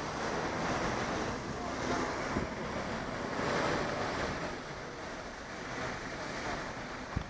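Wind rushing over the microphone of a camera on a moving bicycle, an uneven, surging roar.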